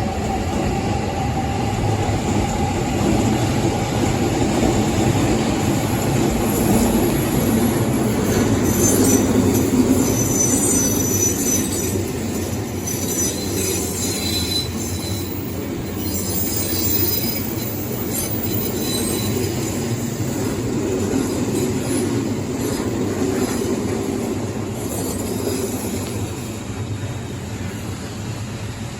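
Odakyu 3000 series electric commuter train running past close by, with a steady rumble of wheels on rail. A high squeal from the wheels comes in partway through and fades again.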